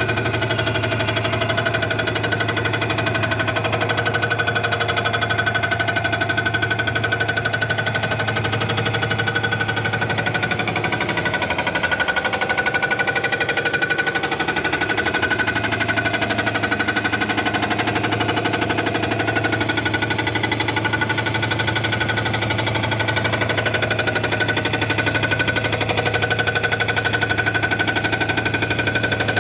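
Machine-shop equipment running steadily under load, with a fast even pulse and a steady hum.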